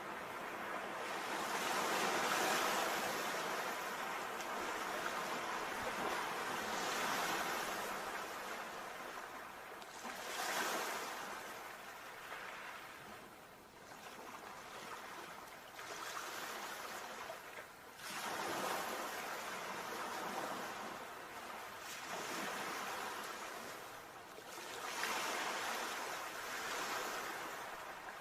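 Sea waves washing in and out, each surge swelling and fading over a few seconds, about half a dozen times.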